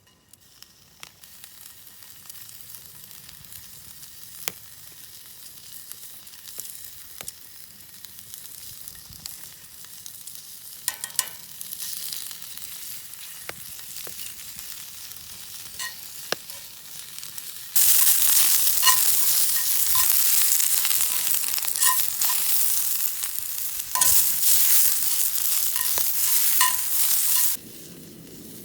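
Food frying and sizzling over a campfire grill, with scattered sharp pops of spattering fat. The sizzle builds gradually, turns much louder about two-thirds of the way through, then drops off suddenly near the end.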